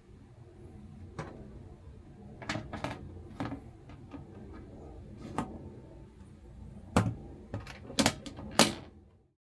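About ten irregular sharp knocks and clacks of wood being struck or handled, louder and closer together in the last couple of seconds, over a low rumbling background; the sound cuts off abruptly just before the end.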